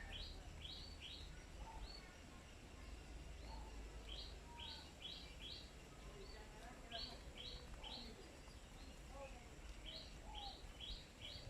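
Small birds calling. One bird repeats a quick phrase of three or four short, high notes about every three seconds, with softer, lower chirps in between.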